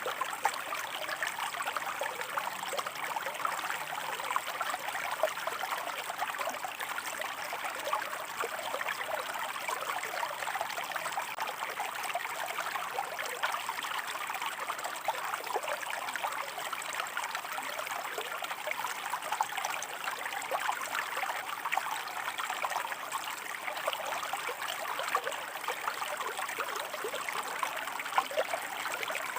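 Shallow stream running over rocks: a steady, even babble and trickle of water with fine splashing detail.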